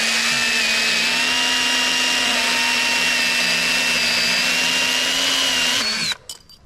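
Echo battery-powered electric pruning saw with a 6-inch bar running steadily at full speed while cutting off a branch stub. About six seconds in the trigger is released and the motor and chain wind down with a falling pitch.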